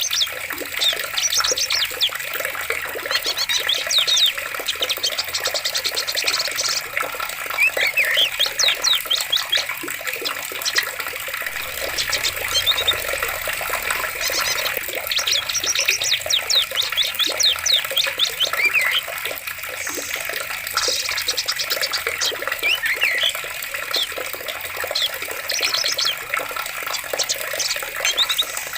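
Steady running water, a stream or small cascade, with forest birds calling and trilling over it again and again.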